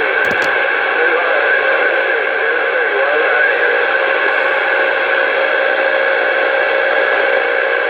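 CB radio putting out a steady rush of static with a faint wavering tone: a channel held open by a keyed transmitter with nobody talking.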